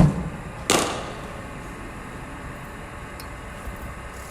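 Two cricket ball impacts in the nets: a sharp crack at the start, then under a second later a second, duller and noisier hit.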